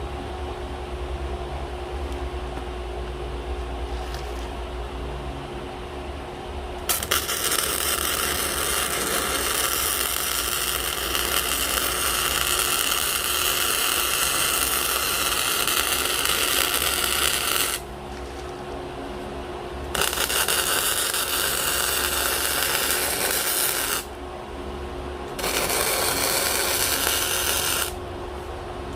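Electric arc welding in three long runs, each a steady crackling hiss that stops abruptly, over a constant low hum: steel plate being welded onto a hydraulic log-splitter frame.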